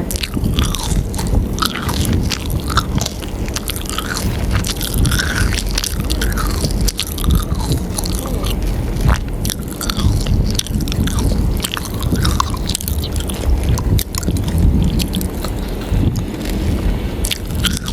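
Close-miked biting and chewing of chicken nuggets, heard as many quick irregular clicks and mouth sounds over a steady low rumble.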